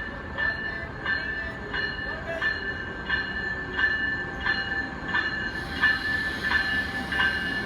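Passenger train rolling slowly along the track with a steady high-pitched wheel squeal and a regular clack of wheels over rail joints, about one and a half clacks a second.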